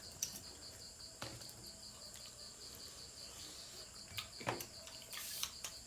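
Crickets chirping in a fast, even pulse, with a few faint clicks and taps scattered through.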